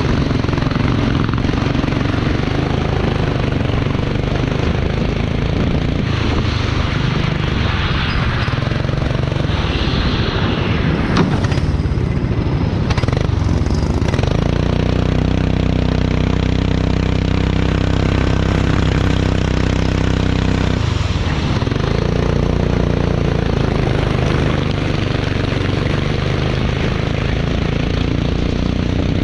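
Race vehicle engine running under load, its pitch rising and falling in the first half. It then holds a steady note for several seconds in the middle before changing again.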